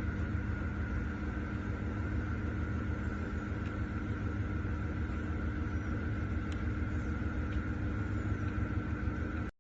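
A steady low machine hum with a few constant tones over it, unchanging throughout, cut off abruptly near the end.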